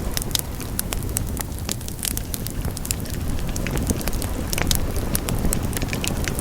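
Wood fire burning in a fireplace, with a steady low rumble of the flames and frequent, irregular crackles and pops of burning wood.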